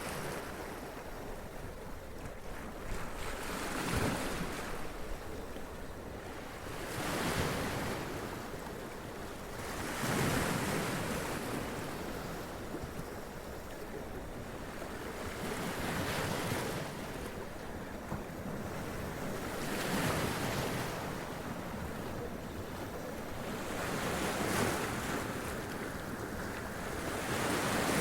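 Sea waves splashing and running up onto rocks: a continuous wash of surf, with a louder splash every three to four seconds. Wind noise on the microphone runs underneath.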